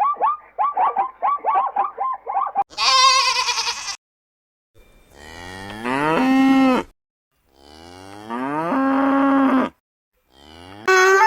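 Cow mooing: two long moos, each rising and then held for about two seconds. Before them, at the start, comes a quick run of short calls from another animal, about five a second, and then one brief higher call.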